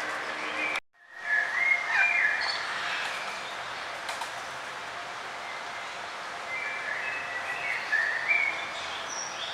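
Small birds chirping and tweeting in short calls over a steady background hiss, with a brief dropout about a second in, followed by louder chirping and more chirps near the end.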